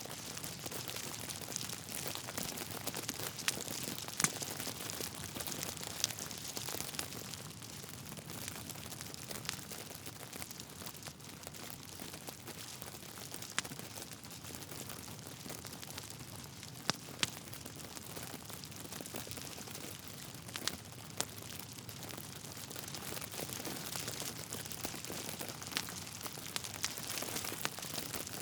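Log fire crackling in a fireplace: a steady hiss and fine crackle, with sharp pops scattered irregularly through it.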